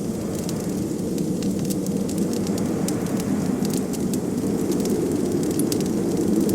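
Wood fire crackling with scattered sharp pops over a steady low rush of blizzard wind.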